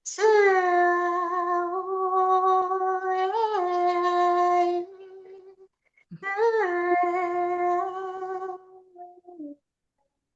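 A woman's voice singing long, wordless held tones: one note of about five seconds with a brief lilt up and back near its middle, then after a short pause a second note of about three seconds that slides down at its end.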